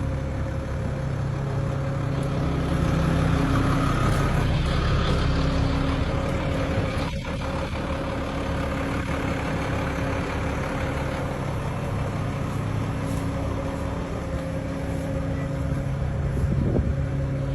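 Heavy engine of a crane truck running steadily at constant speed, with one brief knock about seven seconds in.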